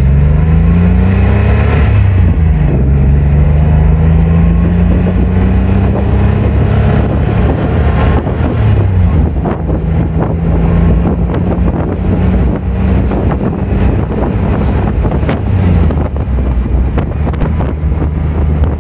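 1987 Porsche 911 Carrera's air-cooled 3.2-litre flat-six, heard from inside the cabin while driving. The engine note climbs, falls sharply at an upshift about two and a half seconds in, climbs again, then holds steady, dropping once more near the end. Road and wind noise sit underneath.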